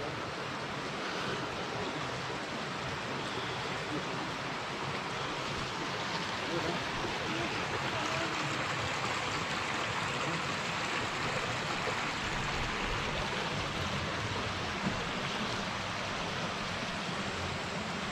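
Steady rushing of a mountain stream, an even hiss of running water with no let-up.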